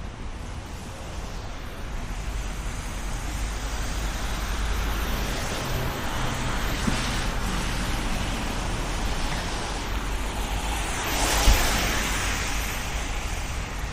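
Street traffic on wet roads: a steady hiss of tyres and traffic over a low rumble, with one swell about eleven seconds in as a vehicle passes close by.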